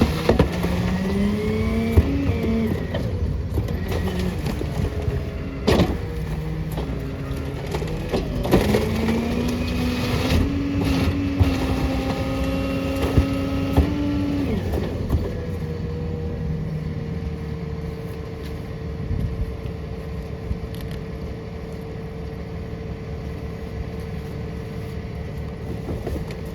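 Small rear-loader garbage truck running its hydraulic packer on a load of recycling: the engine rises in pitch and holds under load twice while sharp bangs and crunches sound from the hopper, then it settles to a steadier, quieter run for the second half.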